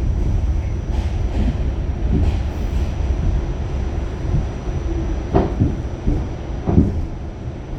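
Pullman Standard R46 subway car running, heard from on board: a steady low rumble of wheels on track, with two sharp clacks about five and a half and seven seconds in, the rumble easing off near the end.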